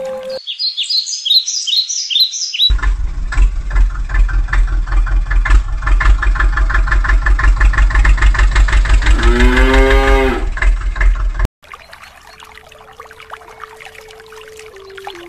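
A short burst of bird chirping, then a tractor engine chugging with a steady beat, with a cow mooing once near the end of it. The engine cuts off abruptly, leaving a faint steady tone.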